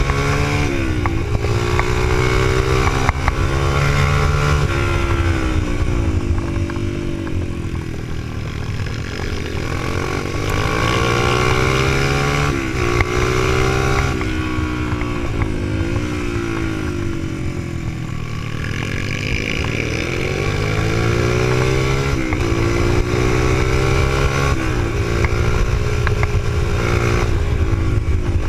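Supermoto motorcycle engine heard from on board while lapping a track. It revs up hard out of each corner and drops back when braking into the next, rising and falling about five times, with a steady rough rush of wind over the microphone underneath.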